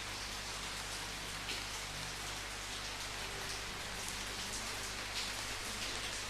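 Steady rain falling, an even hiss with scattered drops pattering on a surface, under a faint low hum.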